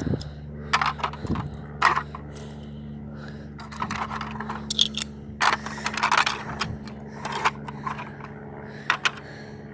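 Small hard broken truck parts being handled and set down, clattering and scraping in irregular sharp clicks and knocks over a steady low hum.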